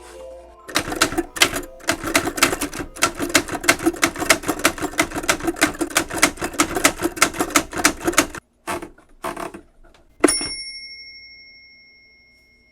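A rapid run of sharp mechanical clicks, several a second, for most of the time, then a few scattered clicks and a single bell-like ding that rings out and slowly fades.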